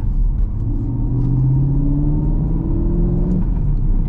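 A 2020 Chevrolet Camaro SS 1LE's 6.2-litre V8 pulling under light acceleration through the six-speed manual gears, its note climbing steadily. The pitch drops sharply about three and a half seconds in as the driver upshifts.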